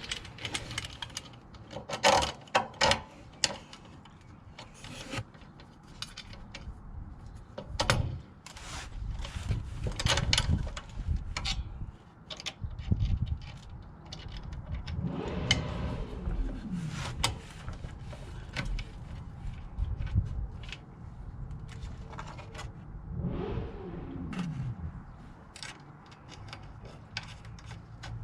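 Irregular knocks, clicks, scrapes and rattles of tools and parts being handled during hands-on work, with two short falling whirrs, about 15 and 23 seconds in.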